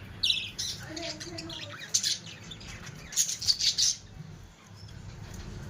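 Small pet parrots chirping and squawking in short bursts: one just after the start, one about two seconds in, and a longer busy burst from about three to four seconds in, after which they fall quieter.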